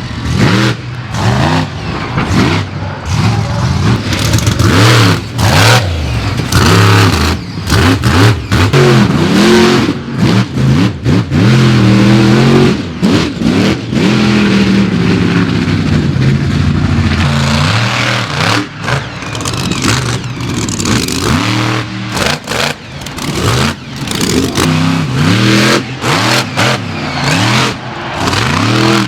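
Monster truck engines revving hard, the pitch rising and falling again and again.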